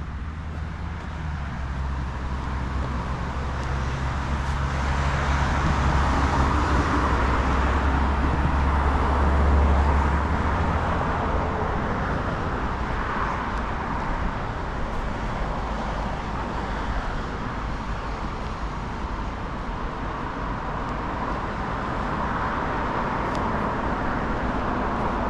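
Road traffic: an engine's low hum and tyre noise swelling to a peak about ten seconds in, then easing to a steady traffic hiss.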